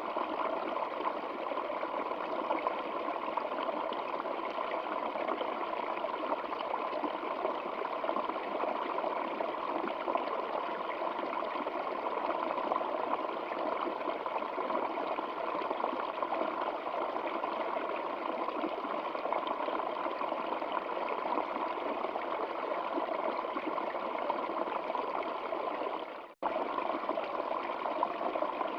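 Stream water flowing steadily, a continuous babbling rush. A little before the end it dips out for a moment and cuts straight back in.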